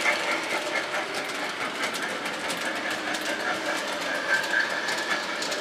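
Train running along the track with a steady rumble and faint clicking of wheels over the rails, with a faint steady tone near the end.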